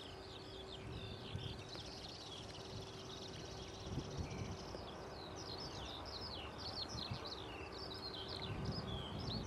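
Small birds chirping and singing in quick, busy phrases almost without a break, over a steady low background rumble and a faint constant hum.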